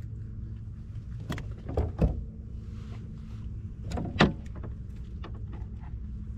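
A few hollow knocks and clunks on a plastic fishing kayak: two close together about two seconds in and a louder one about four seconds in, over a steady low hum.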